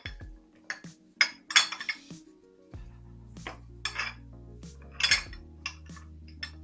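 Cutlery and dishes clinking and clattering in a series of sharp knocks, over background music with steady low notes.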